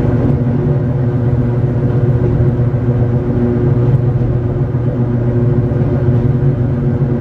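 Hakone Tozan Railway Moha 1-type electric railcar running steadily, heard from inside the car: a constant motor and gear hum over the rumble of the wheels on the rails.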